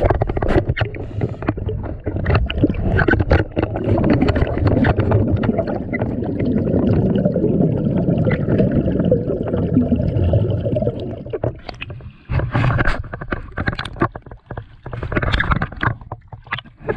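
Underwater noise of a diver at work, dominated by gurgling exhaust bubbles from the scuba regulator and many irregular clicks and knocks. It is dense and steady for the first eleven seconds, then thins out into separate louder bursts.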